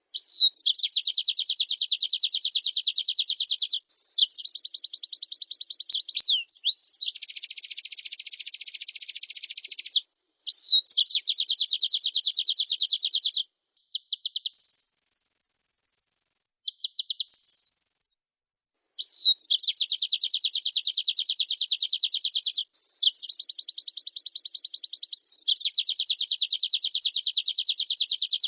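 White-eye (pleci) singing: long, very fast trilled phrases of two to four seconds each with short pauses between them, and two brief, higher and louder bursts about midway.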